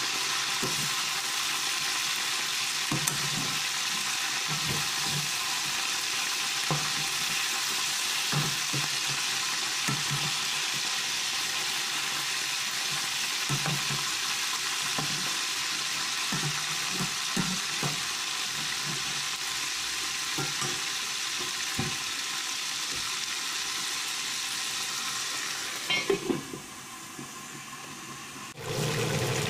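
Chicken pieces frying in hot oil in a pan: a steady sizzle, with scattered knocks of a slotted metal spoon against the pan as the pieces are turned. Near the end a few sharp clinks as a metal lid goes on, and the sizzle drops to a muffled level.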